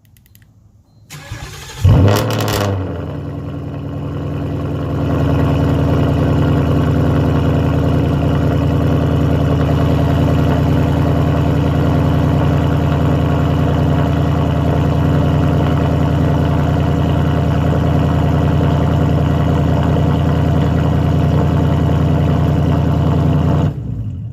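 Car engine with a straight-piped exhaust (cats back) on a cold start: a brief crank, then it catches with a loud burst about two seconds in. It settles into a steady idle that steps up in level a few seconds later and stays loud until it is shut off near the end.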